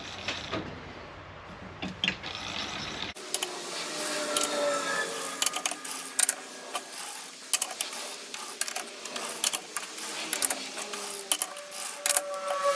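Metallic clicks and clinks with short ringing tones from hand work on a lathe chuck, the jaws being adjusted to true up a workpiece against a dial indicator. The background hum cuts off abruptly about three seconds in.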